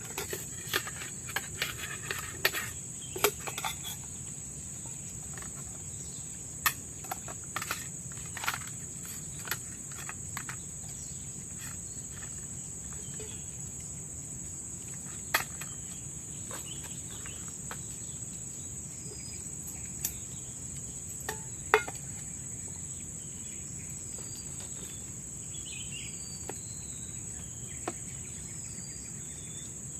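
A steady, high-pitched chorus of insects in forest, with scattered sharp clicks and knocks, mostly in the first third, and faint short bird chirps in the second half.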